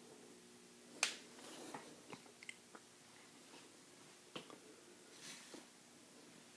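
A few faint, scattered clicks and small taps, the sharpest about a second in, over a low steady hum of room tone.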